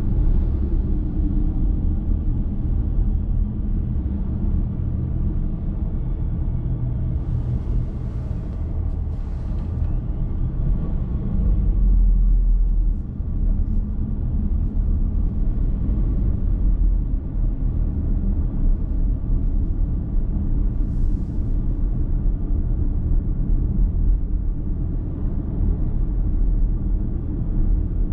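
Car driving on the road, heard from inside the cabin: a steady low rumble of tyres and engine. Brief higher hissing sounds come through a few seconds in and again about two-thirds of the way through.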